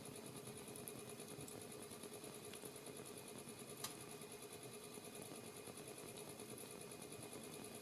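Wood fire burning in a fireplace: a soft steady hiss with faint crackles, and one sharper crack of the wood about four seconds in.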